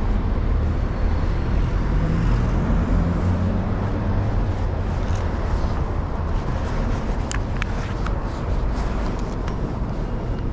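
Street traffic: a steady low rumble of vehicles, with one engine rising in pitch over the first few seconds as it pulls away. A few sharp clicks come about seven seconds in.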